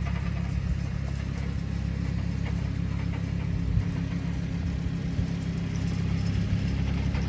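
An engine running steadily at idle, with an even low drone and no change in speed.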